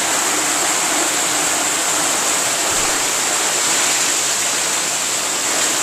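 Steady heavy rain falling after a hail storm, an even hiss with no separate hits.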